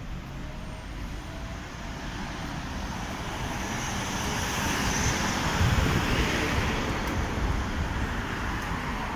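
Street traffic: a passing vehicle's tyre and engine noise builds to a peak about six seconds in, then fades.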